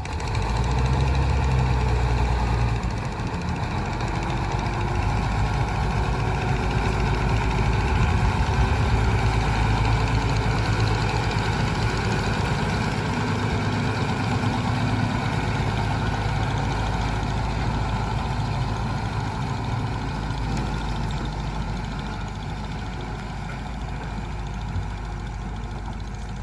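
Heavy machine's diesel engine running steadily. It grows louder about half a second in and eases off slightly toward the end.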